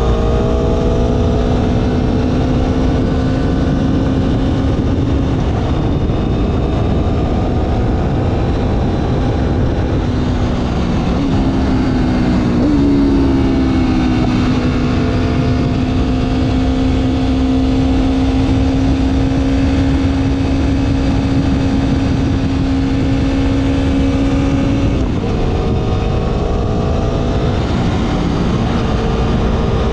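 Motorcycle engine running under way at a steady, slowly drifting pitch, with a steady rush of wind noise underneath. The engine note shifts pitch a little over a third of the way in and again near the end.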